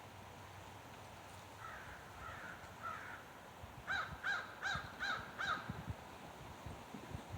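A bird calling: a few softer calls, then about four seconds in a run of five loud, harsh calls at roughly two and a half a second.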